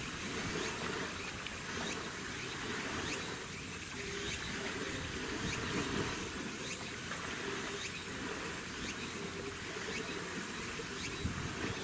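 Steady outdoor noise with insects chirping in short pulses about once a second, over a low rumble from the boat traffic on the water.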